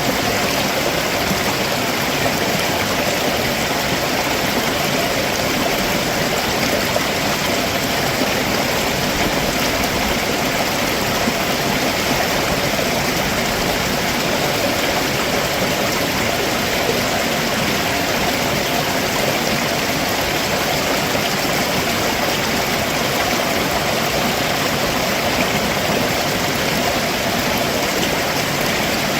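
Stream water rushing and splashing steadily over rocks below a waterfall.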